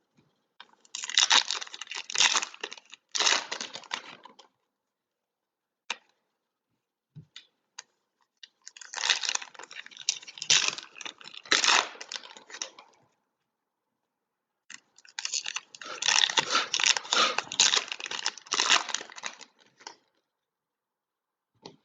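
Trading card packaging torn open and crinkled, in three long crackly bursts with a few faint clicks between them.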